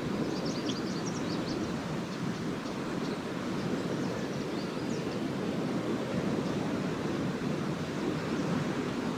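Lake waves washing onto the beach in a steady rushing surf, with swallows giving short high twittering chirps through the first half.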